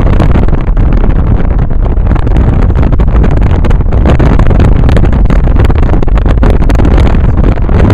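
Loud, steady wind rush and buffeting on a handheld camera's microphone at a car window while driving, over the car's road and engine noise.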